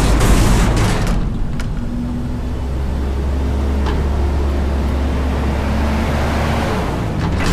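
Front-load garbage truck running, with a loud rushing burst in the first second, then a steady low engine hum for the rest.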